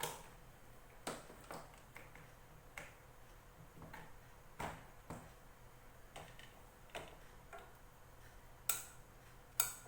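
Sharp clicks and light knocks at uneven intervals, about ten in all, as the repaired plastic bag sealer is handled during a heat test. The two loudest come near the end.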